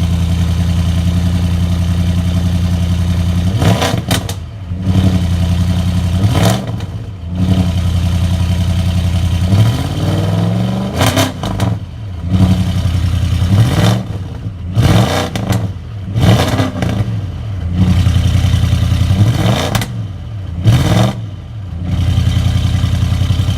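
A 2018 Audi S6's twin-turbo 4.0 V8 exhaust idles steadily, then is revved in a series of about eight short throttle blips, each rising and falling in pitch, before settling back to idle near the end.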